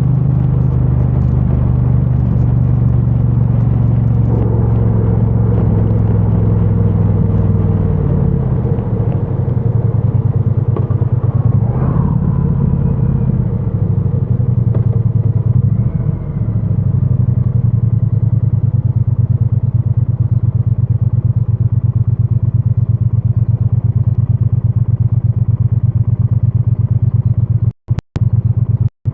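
2022 Triumph Bonneville T100 motorcycle's parallel-twin engine running through its stock exhaust, picked up by a mic in the rider's backpack. The engine note dips and shifts between about 4 and 17 seconds in as the speed changes, then holds steady. The sound cuts out briefly a few times near the end.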